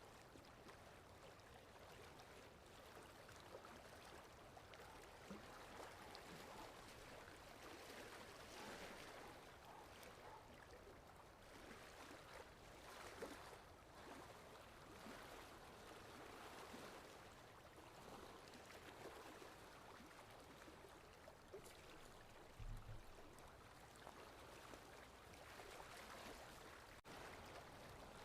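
Sea waves washing on a shore, faint, swelling and easing every few seconds. There is one brief low thump about three-quarters of the way through.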